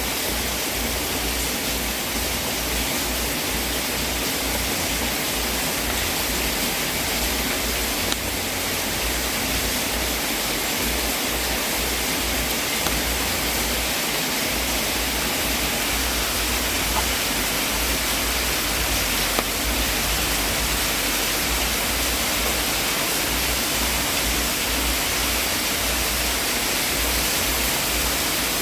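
Wood fire in a fireplace burning with a steady hiss and a few faint pops.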